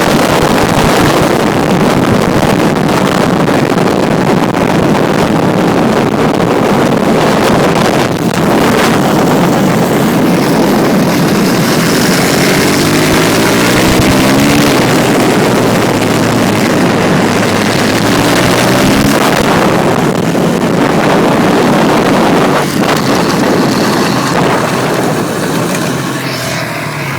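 Yamaha 250 dirt bike engine running under way, its pitch climbing twice as it revs up, under heavy wind buffeting on the microphone.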